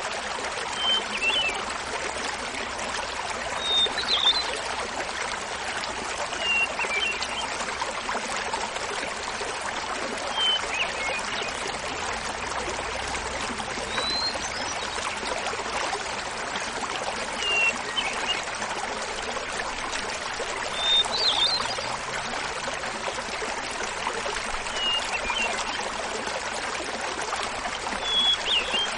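Small mountain waterfall splashing steadily, with a hermit thrush singing a short flute-like phrase about every three seconds: a held opening note then a quick flutter, each phrase at a different pitch.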